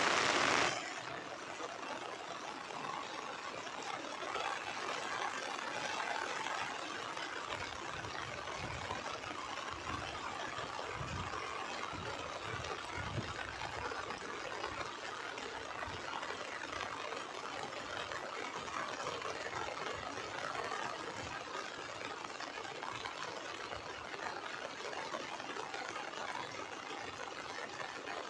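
Heavy rain falling steadily, an even hiss, with a louder rush in the first second and some low rumbling in the middle.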